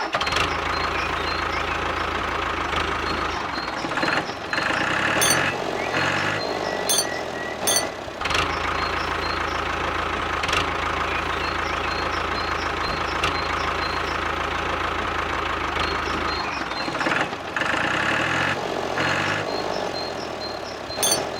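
Small engine of a DIY mini tractor running steadily, its speed rising and falling in two stretches, with a few light clicks.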